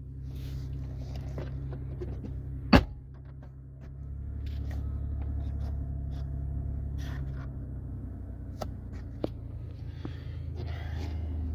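The Ford Expedition's 3.5-litre V6 idling, a steady low hum heard from inside the cabin, with a single sharp click about three seconds in and a few faint ticks later.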